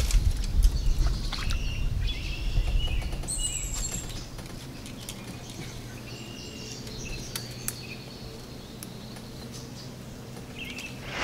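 Wild birds chirping and calling in short repeated notes, over a low rumble with a few sharp clicks that dies down after about four seconds.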